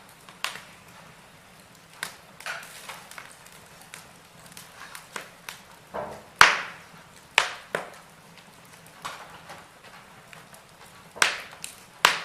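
Wood fire burning in a fireplace, crackling with irregular sharp pops over a faint hiss. The loudest pop comes about halfway through, and two more come close together near the end.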